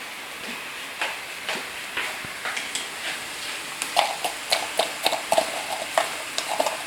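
Sliced mushrooms frying in a wok with a steady light sizzle, under a run of small clicks and taps as powdered seasoning is shaken out of a plastic jar over the pan. The taps come thickest from about four seconds in.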